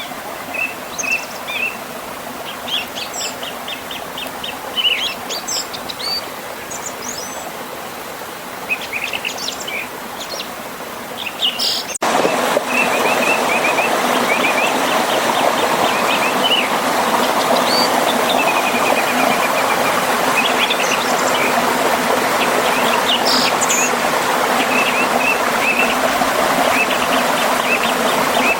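Songbirds chirping and trilling over a steadily flowing river. About twelve seconds in, the rushing water abruptly gets louder and stays that way, while the birdsong continues above it.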